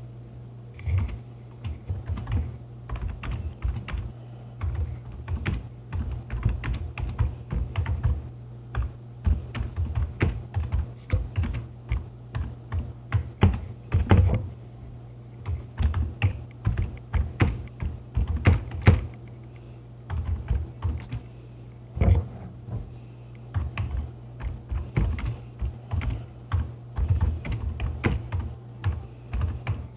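Typing on a computer keyboard: uneven runs of key clicks with short pauses, one of about two seconds past the middle, over a steady low hum.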